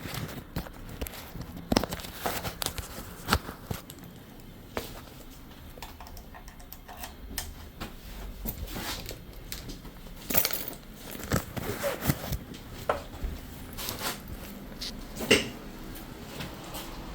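Irregular clicks, taps and small rattles of objects being handled, with rustling between them and one sharper knock about fifteen seconds in.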